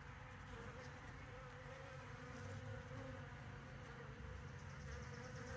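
Honeybees buzzing around a swarm trap: a faint, steady hum.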